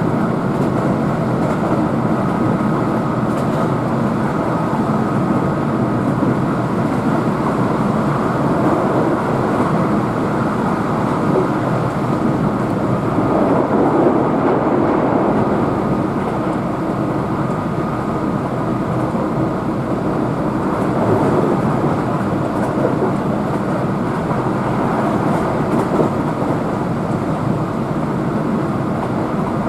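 Electric commuter train running at speed, heard from inside the passenger car: a steady rumble of wheels on the rails and running noise, holding even throughout.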